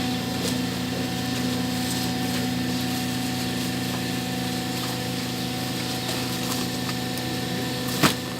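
Hydraulic carton baling press's electric motor and hydraulic pump running with a steady hum. A single sharp knock sounds near the end.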